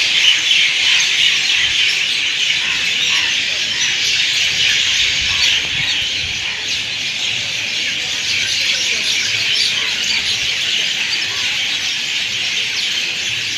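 A dense chorus of many birds chirping and chattering at once, steady and continuous with no pauses.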